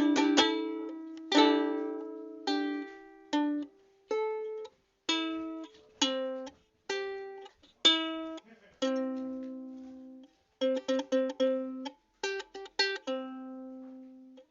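Solo ukulele playing an instrumental melody: plucked notes and chords that ring and fade, with short gaps between them, then a quicker run of repeated chords about ten seconds in.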